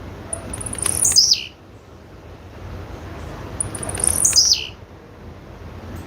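Blue-black grassquit (tiziu) calling twice, about three seconds apart: each call a quick stutter of very high notes that drops away in a downward swoop.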